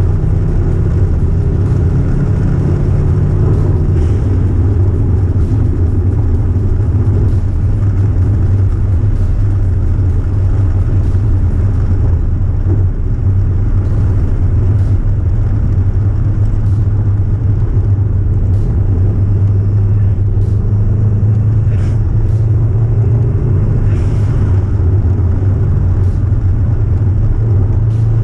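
Subaru Impreza WRX's flat-four boxer engine running at speed with road rumble. Its pitch steps up and down a few times as the revs change.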